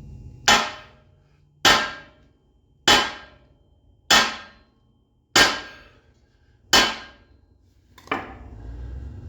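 Big hammer striking a steel snowplow frame to straighten a bend: seven heavy metal-on-metal blows about 1.3 seconds apart, each ringing briefly, the last one lighter.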